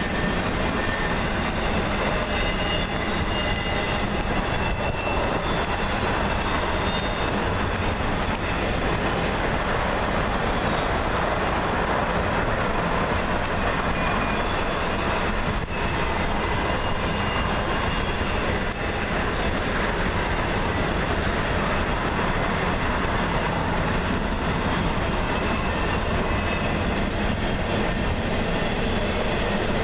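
Freight train cars rolling past steadily, steel wheels running on the rails with a faint high wheel squeal.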